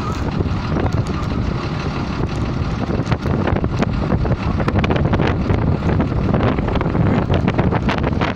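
Strong wind buffeting the microphone: a steady low rumble broken by rapid crackling gusts.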